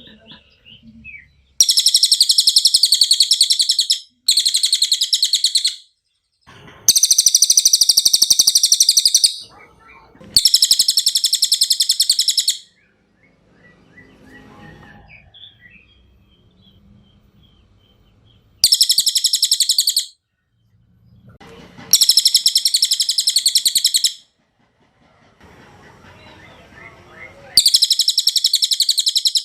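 Cililin songbird singing a very fast, high-pitched rolling trill in seven bursts of about two seconds each, with short pauses between them and a longer pause in the middle.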